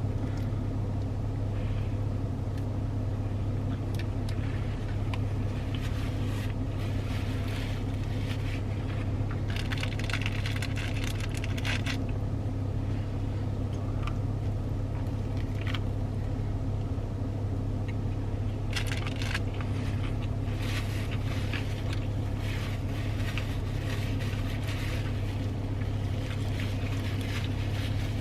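Steady low hum of a car idling, heard from inside the cabin, with bursts of crunching, chewing and wrapper rustling from eating fried chicken; the crunching is busiest around the middle and again in the last third.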